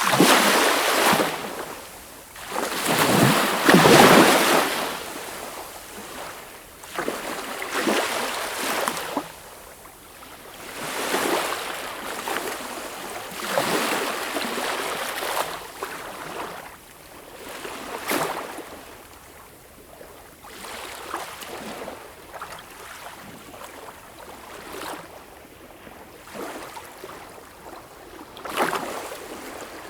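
Sea waves breaking and washing in, in repeated swells a few seconds apart, the loudest in the first four seconds.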